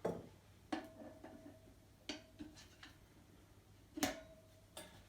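A steel wheel-balancing axle being pushed through the hub of a dirt bike wheel: about six metal clicks and knocks spread over a few seconds, two of them ringing briefly.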